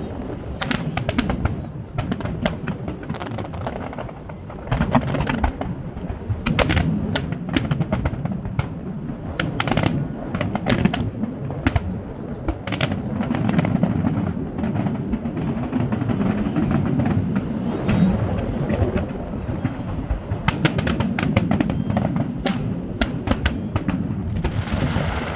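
Fireworks going off: sharp bangs and crackles at irregular intervals, coming in clusters, over a continuous low rumble.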